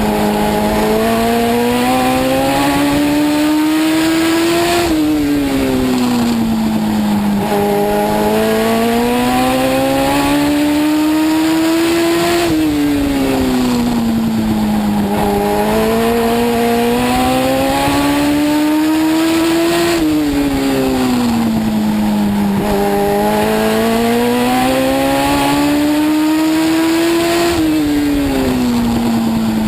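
Legend race car's Yamaha motorcycle four-cylinder engine at racing speed, heard from inside the car. The engine note climbs steadily for several seconds, then drops sharply when the throttle comes off, about every seven to eight seconds, lap after lap.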